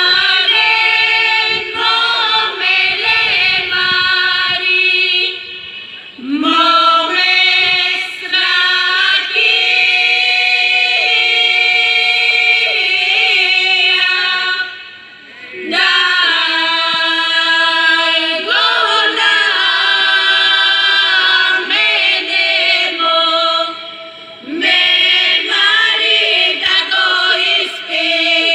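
Bulgarian women's folk singing group singing unaccompanied in several voices. The song goes in long phrases, with brief breaks between them about every nine to ten seconds.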